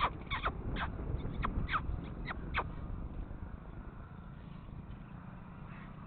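A bird giving a quick run of short, sharp calls, each sliding down in pitch, about eight in the first two and a half seconds, then falling silent. A low rumble runs underneath.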